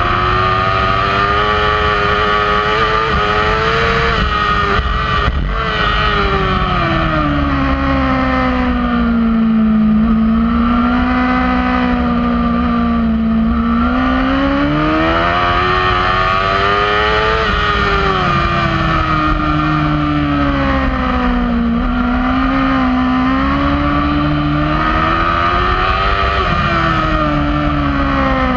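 Kawasaki racing superbike engine at full race pace, heard from on the bike. Its note climbs under acceleration and falls away on braking and downshifts three times.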